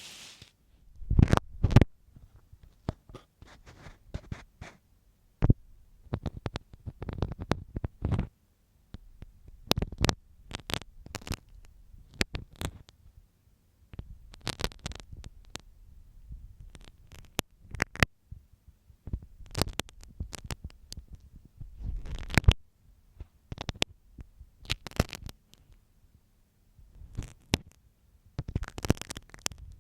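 A dressmaker's marking pin scratching and tapping inside the ear of a binaural ear microphone. It comes in irregular strokes of short scrapes and sharp clicks with deep thumps, separated by brief pauses.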